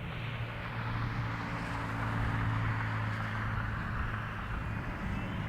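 Jet aircraft engine noise: a broad rush that swells to a peak about two to three seconds in and eases off, over a steady low hum.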